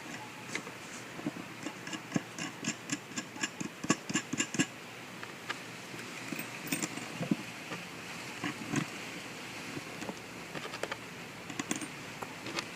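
Small metallic clicks and rattles as washers and nuts are fitted onto a stainless steel eye bolt through the bottom of a plastic bucket. A quick, fairly regular run of clicks comes in the first few seconds, then scattered single clicks.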